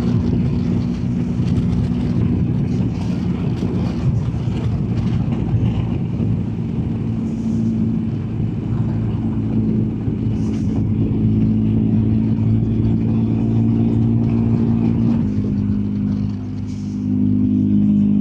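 BMW R1250GSA's boxer-twin engine running steadily at road speed under a low wind rumble. The engine note shifts about fifteen seconds in, dips briefly, then rises again near the end.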